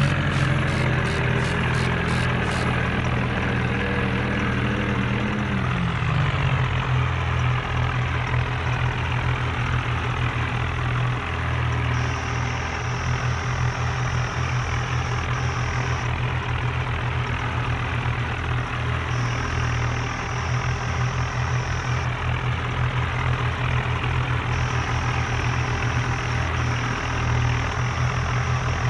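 Tractor diesel engine running. Its revs fall over the first several seconds, then it settles and runs steadily at low speed.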